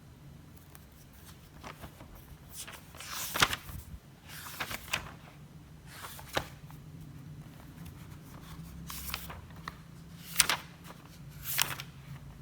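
Desk work sounds: papers and small objects handled, several short rustles and sharp clicks, the loudest about three and a half seconds in and twice near the end, over a low steady hum.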